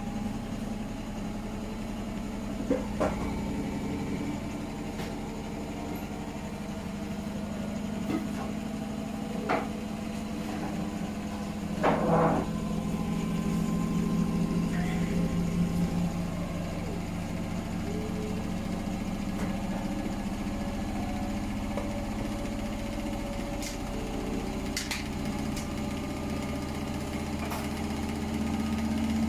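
Hotpoint WMFUG942 front-loading washing machine running its wash cycle, with a steady motor hum. Occasional knocks come from the dog food box tumbling in the drum, the loudest about twelve seconds in.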